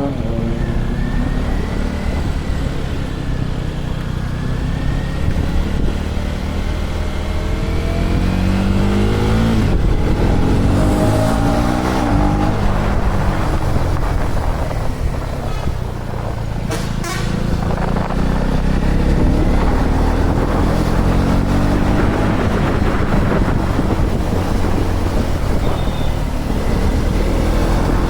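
KTM Duke 250's single-cylinder engine running on the move, its revs rising and falling again and again through the gears, with wind rushing over the microphone.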